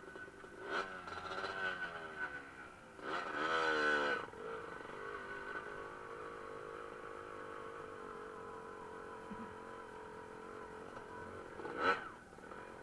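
Dirt bike engines revving twice, each rev rising and falling, then running at a steady note, with one short sharp rev burst near the end.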